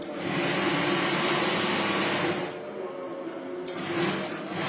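Overlock sewing machine running fast for about two and a half seconds, stopping, then running again briefly near the end.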